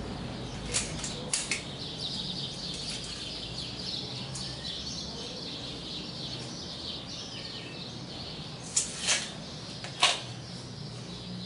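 Small birds chirping steadily in the background. A few sharp clicks cut through: three about a second in, and three more near the end, the last the loudest.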